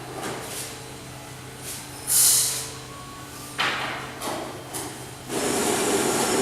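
A few light knocks and a short, loud hiss about two seconds in. About five seconds in, a steady rushing noise starts and keeps going.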